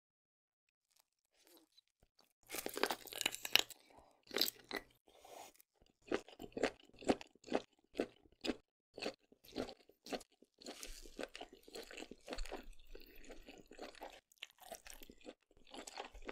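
Close-miked mukbang eating: biting into and chewing sauce-coated seafood. A dense burst of bites comes about two and a half seconds in, followed by steady chewing at about two chews a second.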